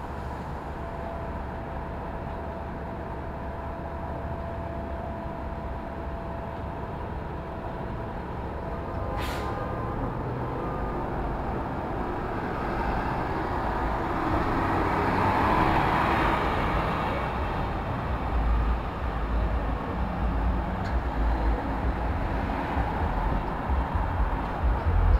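City street traffic noise, a steady wash of passing vehicles. There is a brief sharp sound about nine seconds in, and a vehicle passes louder around the middle. Heavier low rumbling follows in the last several seconds.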